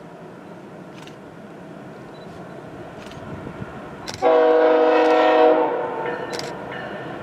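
Diesel locomotive air horn sounding one long blast of a multi-tone chord about four seconds in, over the slowly growing rumble of an approaching train.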